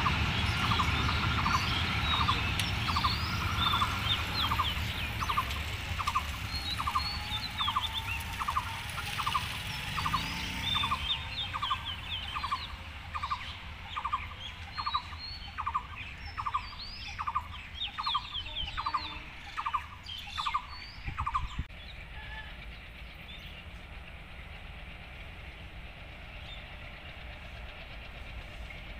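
Birds chirping, with one bird repeating a short call a little more than once a second until about 21 seconds in. Under it, the low rumble of a distant train fades away over the first ten seconds.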